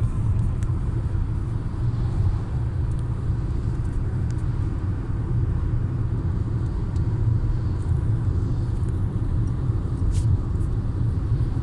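Steady low rumble of a car driving along a road, heard from inside the cabin: engine and tyre noise at a constant speed.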